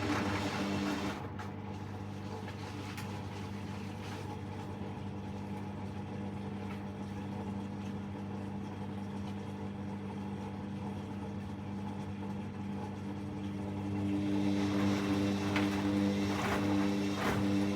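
Hoover washing machine's drain pump humming steadily as it empties the drum after the first rinse. Near the end it gets louder, with swishing and a few knocks as the drum turns back and forth to spread the laundry before the spin.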